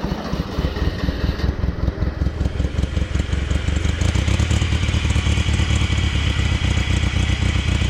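Satoh S650G tractor engine on a hard cold start with the choke on, having just caught. It runs unevenly for the first few seconds, then settles into a steady idle.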